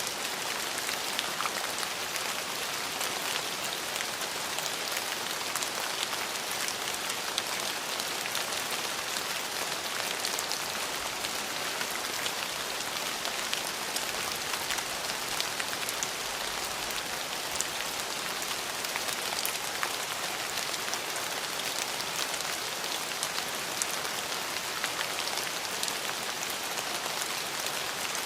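Steady rain falling on a surface, a dense even hiss with many small drop ticks throughout.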